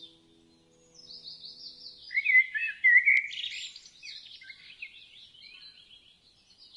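Several wild birds chirping and trilling together in a dense chorus of quick high notes, louder about two to three seconds in.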